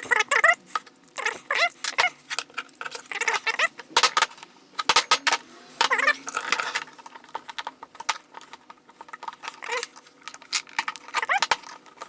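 Small metal tools clicking and scraping against a rotary hammer's tool holder while prying at the spring ring, in many irregular sharp clicks, with short wavering high squeaks now and then.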